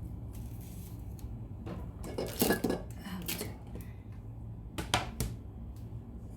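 Kitchen dishes and utensils clattering as they are handled: a burst of knocks and clinks about two seconds in, then a few sharp knocks around five seconds in.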